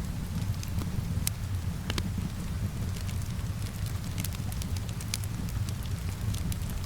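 Wood fire in a fireplace crackling with scattered sharp pops, over a steady rain ambience.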